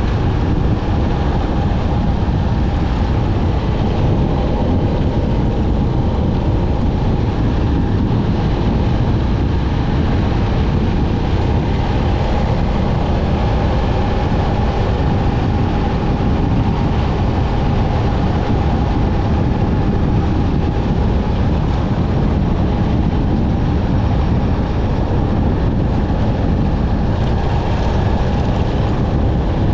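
Motorcycle running steadily while being ridden, the engine's sound holding an even pitch and loudness with no revving or gear changes.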